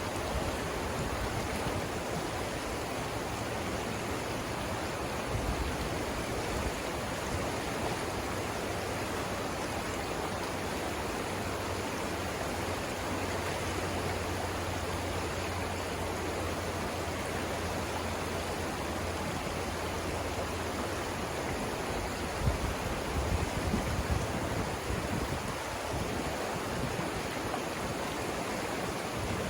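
Steady rush of the Savannah River's water flowing over rapids. A low rumble sits underneath, with a few brief low bumps about three-quarters of the way through.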